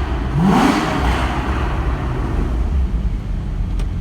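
Porsche engine through its sport exhaust: one quick throttle blip about half a second in, the pitch rising and falling back, then settling to a steady idle.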